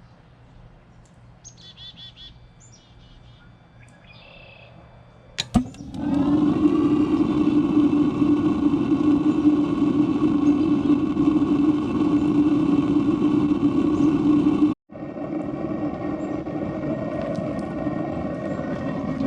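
Birds chirping faintly, then a click about five seconds in and a motor starting up, its pitch rising briefly before it settles into a loud steady hum. The hum breaks off for an instant near the end and carries on.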